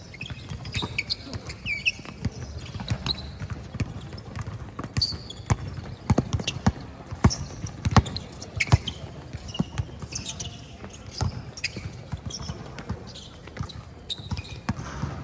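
Basketball game sounds on an indoor court: a ball bouncing repeatedly at an uneven pace, with players' voices and short squeaks in between.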